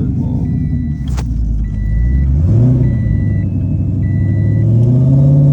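Car engine accelerating, heard from inside the cabin. Its pitch climbs, drops about two and a half seconds in as it shifts, then climbs again. A short electronic warning beep repeats about every second, four times.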